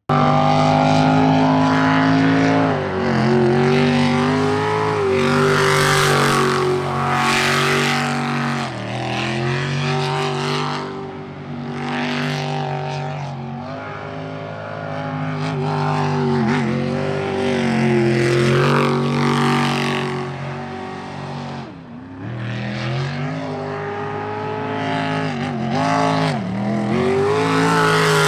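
A jet sprint boat's racing engine running hard through a course, its pitch dropping and climbing back again and again as the throttle is eased and reapplied through the turns.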